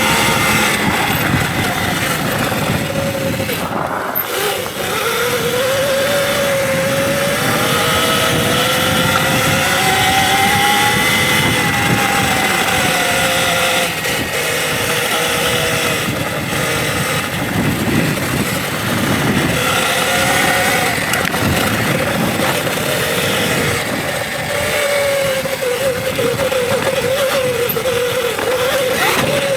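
Electric dirt bike's motor whining, its pitch rising and falling again and again with the throttle, over a steady rushing noise of wind and the trail.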